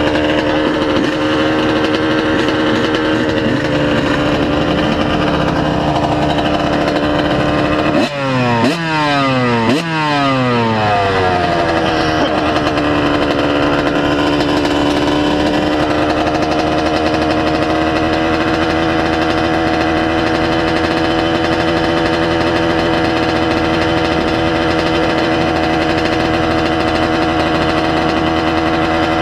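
A 125 cc two-stroke motocross bike engine running at steady high revs. About a third of the way in the pitch drops sharply several times in quick succession, then it settles to a slightly lower steady note.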